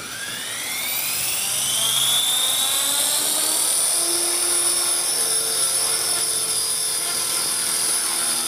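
Align T-Rex 450 electric RC helicopter spooling up: the whine of its motor and rotor rises in pitch over the first two seconds or so, then holds steady and high.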